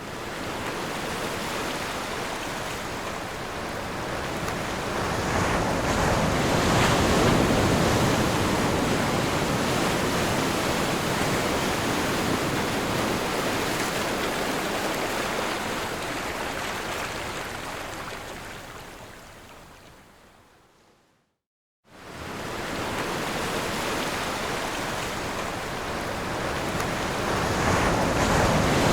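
Sea waves washing onto a shore, a steady rush of surf that swells and eases slowly. About three-quarters of the way through it fades away to a moment of silence, then the surf comes back.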